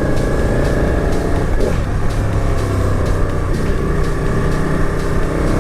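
Sports motorcycle's engine running at steady revs while riding, under heavy wind rush on the microphone.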